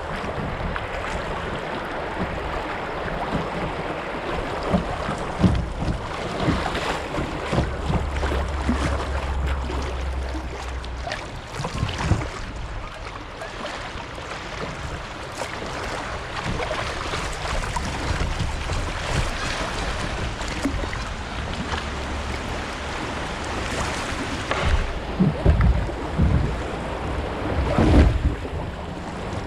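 Kayak paddling on a shallow river: water splashing with the paddle strokes, with wind buffeting the microphone. Several low knocks near the end.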